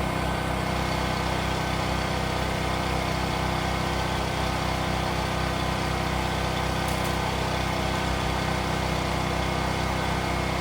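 A generator's engine running steadily: a really loud, even drone that holds the same pitch throughout.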